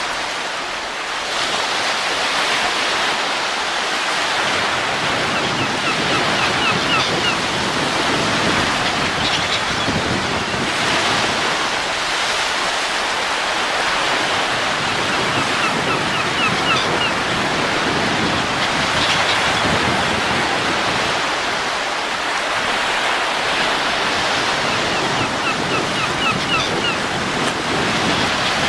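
Steady rushing wind, swelling and easing in slow gusts, with a faint quick series of short high ticks recurring about every ten seconds.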